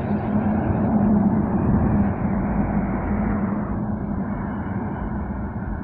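A truck driving past: steady engine drone and tyre noise that is loudest about one to two seconds in, then slowly fades as it moves away.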